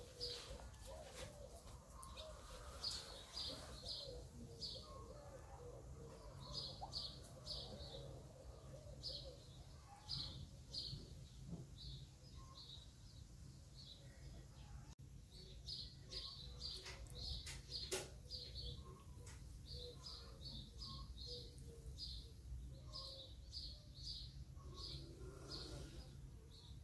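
Small birds chirping in the background, short high chirps coming in quick runs over a steady low hum. A sharp click sounds once, about two-thirds of the way through.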